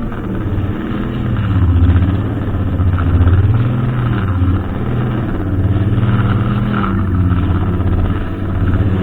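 Brushcutter engine running under load, its pitch and loudness rising and falling repeatedly as it works.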